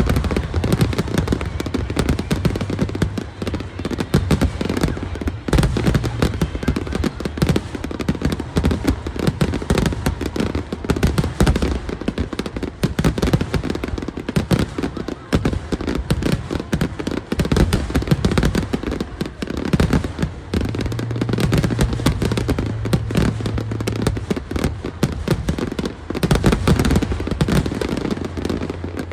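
Fireworks finale: a rapid, unbroken run of bangs and crackles from shells going off in the sky, many each second, with no pause.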